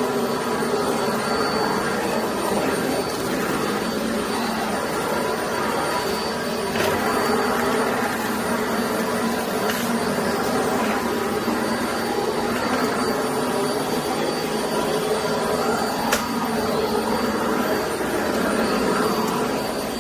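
Vacuum cleaner running steadily, a continuous motor and airflow noise with a thin high whine over it.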